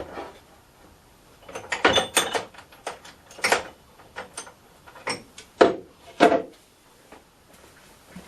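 Metal lathe tooling being handled and set down: a string of irregular clinks and knocks, the loudest around the middle.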